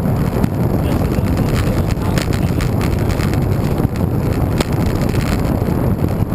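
Wind rushing over the microphone of a camera riding along on a moving bicycle: a steady low rumble, with scattered small clicks and rattles.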